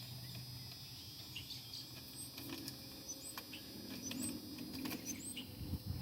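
Faint bird chirps, short rising notes repeated every second or so, over quiet outdoor background with a few light clicks.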